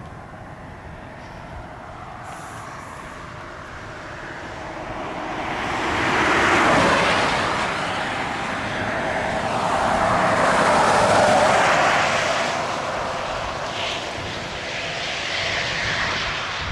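Vehicles passing by. The noise swells twice, loudest about seven and eleven seconds in.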